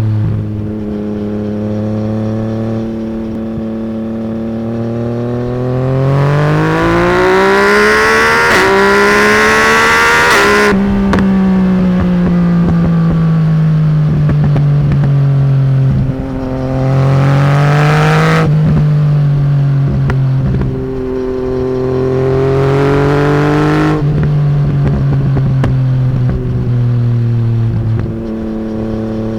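Yamaha MT-09's inline three-cylinder engine through a straight-pipe de-cat exhaust, loud and unsilenced. The revs climb over several seconds to a high held note, fall away sharply about ten seconds in, then swell twice more in shorter rises before settling back to a low steady run.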